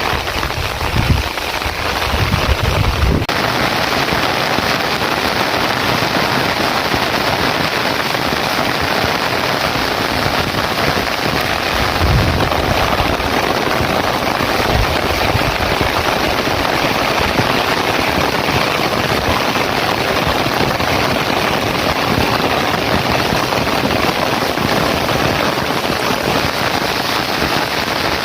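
Heavy rain falling steadily, a dense even hiss, with a few low thumps in the first three seconds and another about twelve seconds in.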